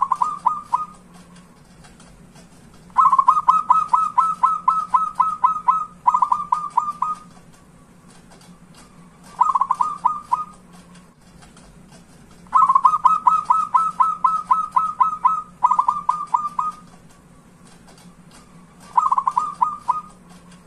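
Zebra dove (perkutut) cooing in rapid runs of short staccato notes, about four a second, in bouts of one to three seconds separated by pauses of a second or two. The longer bouts run straight on into a shorter one, with a faint steady hum underneath.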